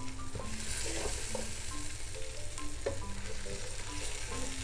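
Salmon pieces and onions sizzling in hot oil in a pot while a wooden spatula stirs and lifts them out, with a sharp knock of the spatula about three seconds in.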